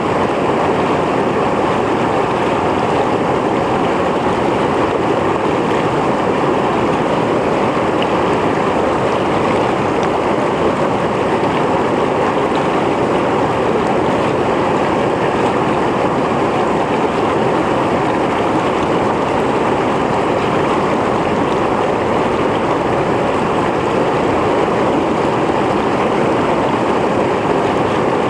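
Mountain stream flowing, a steady, even rush of water over rocks.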